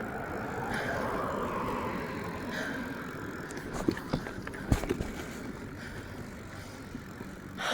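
Steady rushing of wind and ride noise while moving along, with a few sharp clicks or knocks about four to five seconds in.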